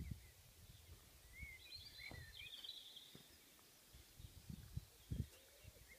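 Faint birdsong: short chirps and whistles over quiet outdoor background noise, with a few brief low thumps, the most distinct near the end.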